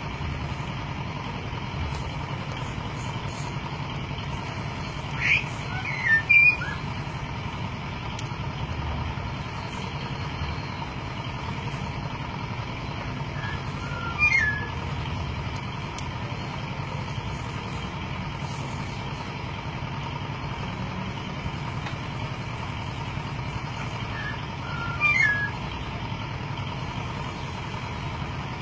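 Golden myna giving three brief bouts of loud, gliding whistled calls with long gaps between them, over a steady background hum.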